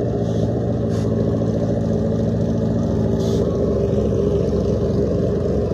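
Drag racing engine idling steadily, an even low drone with no revving.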